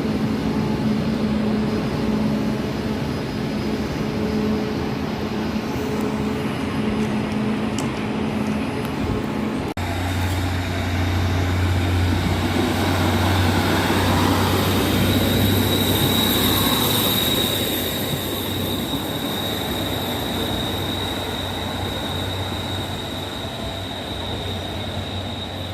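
Passenger trains at a station platform: first a steady droning hum from a train standing or creeping along. After an abrupt cut, a train runs slowly along the platform with a low rumble and a thin, high wheel squeal that swells, then fades toward the end.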